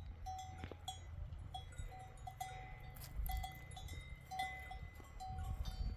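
Livestock neck bells clinking irregularly, many short ringing notes, over a steady low rumble.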